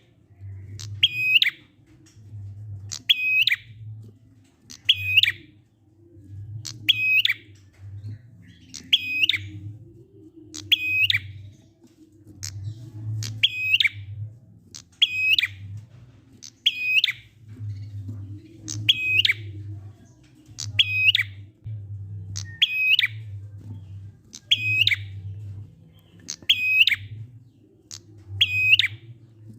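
Prinia (prenjak) calling: one short, sharp call about every two seconds, repeated evenly, over a low hum that rises and falls in step with the calls.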